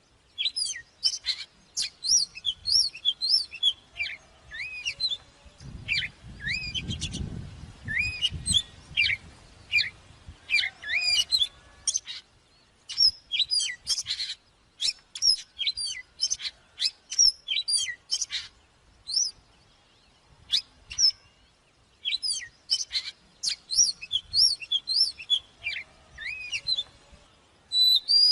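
Oriental magpie-robin singing: rapid phrases of clear, sliding whistles and chirps, broken by short pauses. A low rumble runs underneath for a few seconds about a quarter of the way in.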